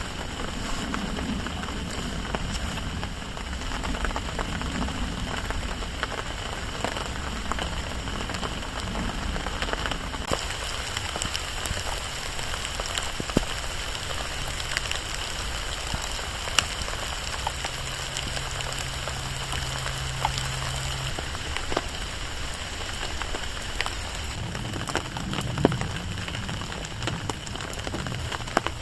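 Steady rain falling on a car-side tarp, with many separate drops ticking on it. A faint low hum comes in for a few seconds past the middle.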